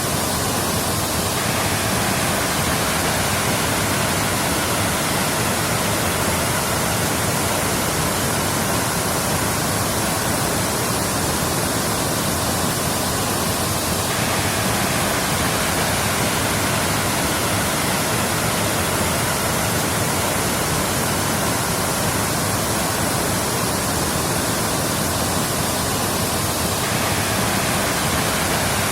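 Waterfall: a continuous, even rush of falling water with no let-up, its texture shifting slightly about every thirteen seconds.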